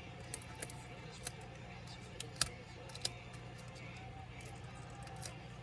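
Scattered sharp clicks and taps of small tools and parts being handled during laptop disassembly, about half a dozen, over a steady low hum.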